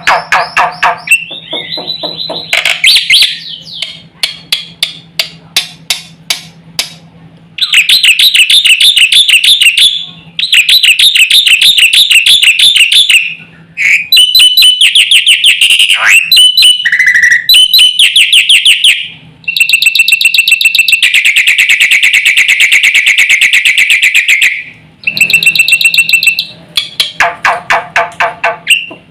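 Black-winged starling (jalak putih) in full, vigorous song. Loud phrases of fast repeated notes and harsh rattling chatter run for several seconds at a time, broken by short pauses, with a falling whistle about the middle.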